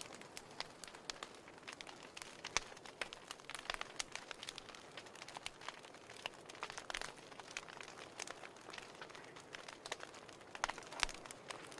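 Wood fire burning in a fireplace: soft steady hiss under irregular crackles and pops, several a second, with a few sharper pops near the end.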